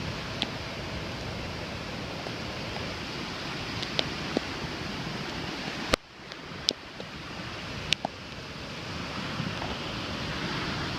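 Steady rush of surf on the beach with wind buffeting the microphone, and a few short sharp clicks. About six seconds in the sound drops abruptly, then builds back.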